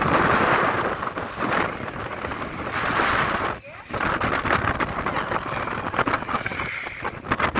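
Strong wind buffeting the microphone in gusts, with a brief lull about three and a half seconds in.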